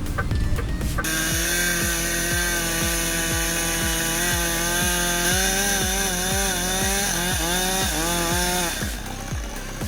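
Chainsaw running at high revs and cutting, its pitch wavering and dipping near the end, over background music with a steady beat. It comes in abruptly about a second in and drops away near the end.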